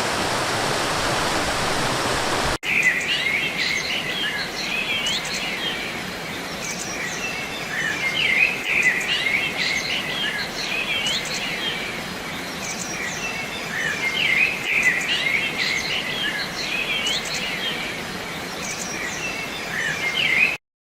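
Rushing water from a waterfall, which cuts off abruptly a couple of seconds in. Songbirds then chirp and call with many short calls and quick rising and falling notes until the sound stops suddenly near the end.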